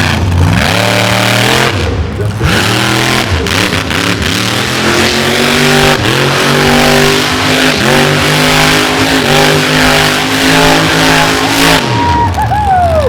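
Monster truck engine revving hard at high throttle, its pitch climbing, holding and falling again several times over heavy noise. About twelve seconds in the engine pitch falls away.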